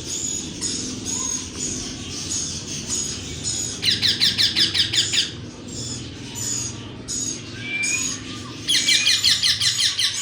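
Small parrots chirping: a run of short high chirps, about two to three a second, broken twice by a fast chattering trill, once about four seconds in and again near the end.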